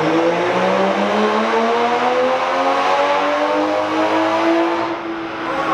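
2020 Toyota Supra's turbocharged straight-six making a wide-open-throttle pull on a chassis dyno, the engine note climbing steadily in pitch as the revs rise through one gear. It cuts off about five seconds in as the throttle closes at the end of the run.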